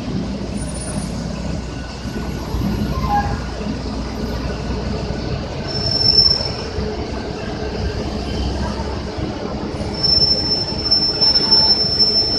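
City buses rumbling past, with a high steady brake squeal briefly about six seconds in and again for about three seconds near the end.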